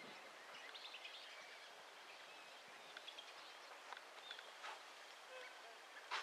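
Faint chorus of wetland birds calling: scattered short chirps and whistles over a low background hiss, with a brief louder sound near the end.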